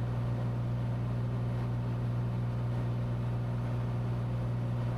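Cessna 182T's six-cylinder Lycoming engine and propeller droning steadily in flight, heard inside the cockpit as an even low hum.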